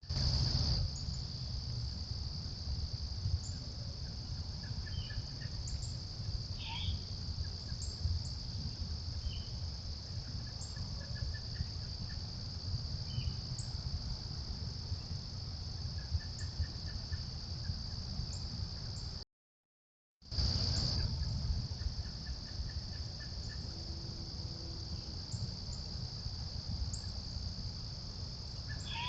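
Steady, high-pitched chorus of insects such as crickets, with faint short chirps now and then over a low rumble. It breaks off for about a second of silence midway, then resumes unchanged.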